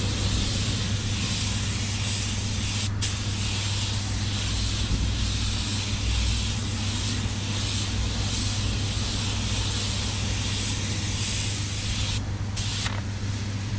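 Air spray gun hissing as it lays paint onto a car bumper, cutting off briefly about three seconds in and again near the end as the trigger is released. A steady low hum runs underneath.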